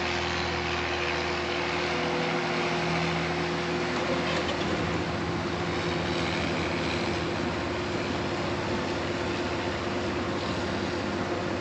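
Farm machine's diesel engine running steadily, with a constant broad hiss over it; the engine's tone shifts slightly about four seconds in.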